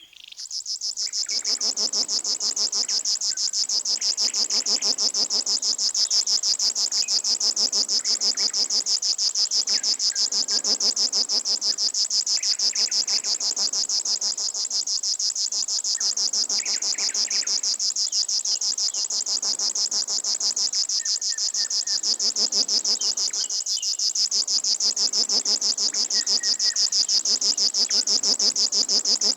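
River warbler singing: a long, steady, high-pitched buzzing song made of fast, evenly repeated pulses, like an insect. The song swells up in the first second and holds at an even level, with fainter lower sounds behind it.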